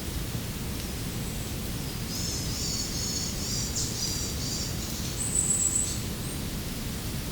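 A small bird calling in a run of high, rapid chirps over the steady rush of running water, ending in a thin, higher whistled note about five seconds in, the loudest moment.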